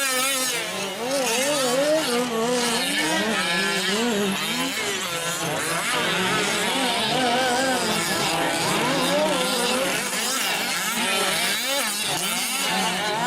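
Several 1/5-scale gas RC trucks' small two-stroke engines racing together, their overlapping high-pitched whines rising and falling as each throttles up and backs off.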